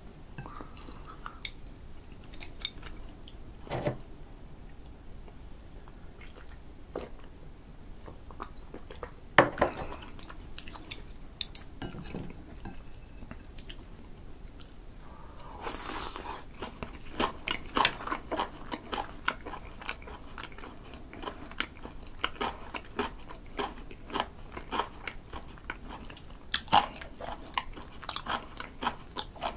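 Close-miked chewing of a bite of spicy-glazed grilled sea eel with pickled ginger: moist, sticky mouth sounds with crisp little clicks, starting about halfway through. Before that, only a few scattered light clicks and taps.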